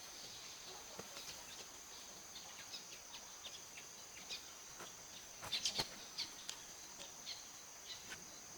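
Faint outdoor ambience: a steady high-pitched insect drone with scattered short bird chirps throughout. A quick run of three or four sharp clicks a little past halfway is the loudest sound.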